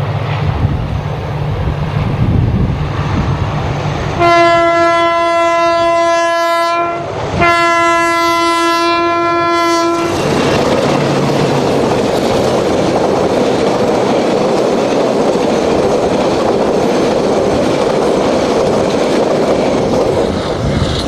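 Diesel locomotive hauling a passenger train past. Its engine hums low for the first few seconds, then it sounds two long horn blasts of about three seconds each with a short break between them. After that come about ten seconds of steady wheel-on-rail noise as the carriages roll by.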